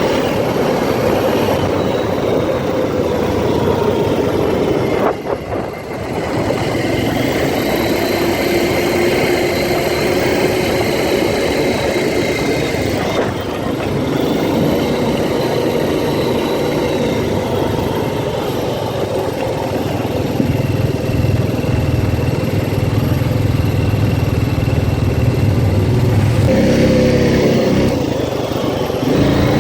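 Four-wheeler (ATV) engine running while riding. The sound dips briefly about five seconds in, and the engine note turns deeper and stronger about two-thirds of the way through.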